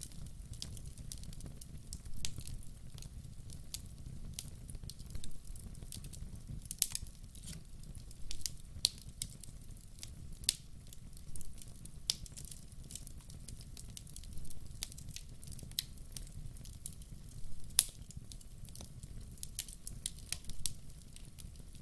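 Burning logs crackling and popping at irregular intervals, over a low steady rumble of the fire.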